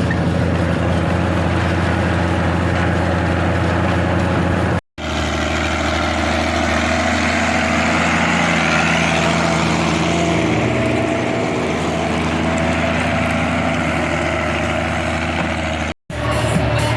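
ZTS 16245 tractor's six-cylinder diesel engine running steadily with a deep drone. The sound cuts out abruptly for a moment about five seconds in and again near the end.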